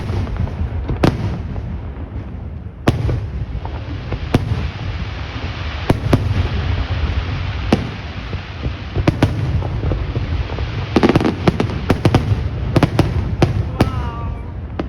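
Fireworks display going off: repeated sharp bangs of shells bursting over a continuous low rumble, with a rapid run of bangs about eleven to thirteen seconds in.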